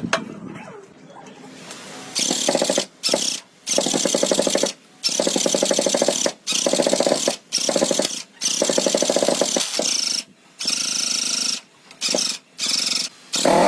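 An abrasive power tool sanding or grinding, with a fast, even buzz. It comes in repeated bursts that start and stop abruptly about every second or so.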